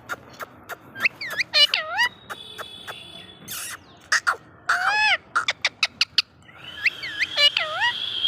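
Parrot calling: several short, pitch-bending calls, a few of them in quick pairs, with a held high note near the end. Sharp clicks are scattered between the calls.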